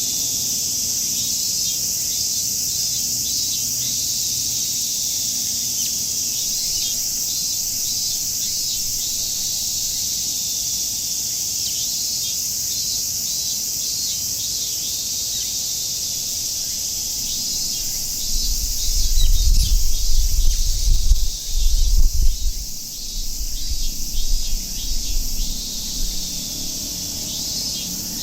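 A dense, steady chorus of cicadas shrilling, with birds chirping now and then. About two-thirds of the way through, a run of irregular low rumbling gusts rises for several seconds and becomes the loudest sound before fading.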